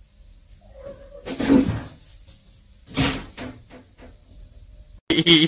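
A tabby house cat startled by its own reflection in a mirror, making two sudden loud noises about a second and a half and three seconds in, with lighter scuffs after. Music starts just before the end.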